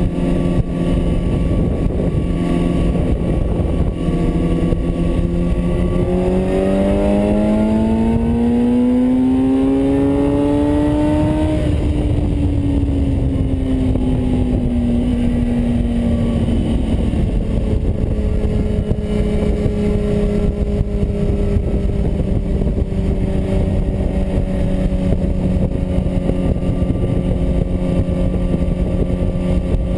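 Suzuki GSX-R sport bike's inline-four engine running at a steady cruise in fourth gear, with wind noise on the microphone. About six seconds in, the engine note climbs steadily for five seconds as the bike accelerates. It then falls back over a few seconds and settles into a steady cruise again.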